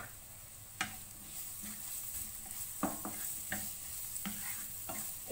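Chopped garlic and green onion whites sizzling gently in olive oil in a pan on a low flame. A stirring utensil knocks against the pan about five times.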